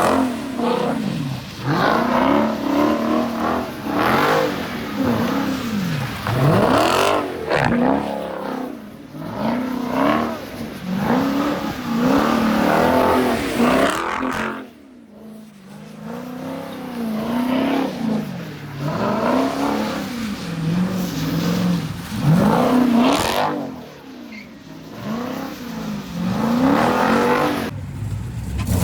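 Car engine revved over and over in short blips, its pitch rising and falling about once a second, with two brief lulls.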